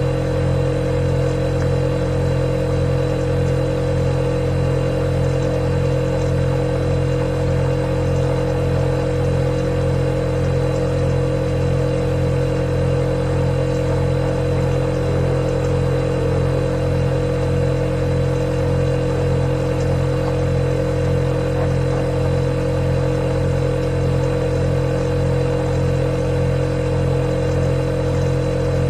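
Refrigerator running with a steady, unchanging hum, a low drone with a higher steady tone above it.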